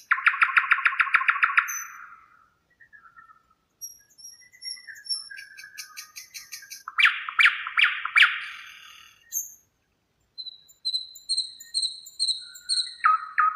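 Songbirds singing. Rapid trilled phrases come at the start and again around the middle and end, and a series of thin, high repeated notes sits between them, with short pauses between phrases.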